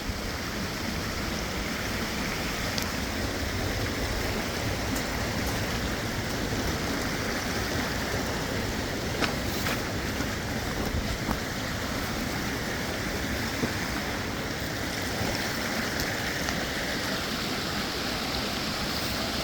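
Steady rushing of running creek water, with a few faint clicks now and then.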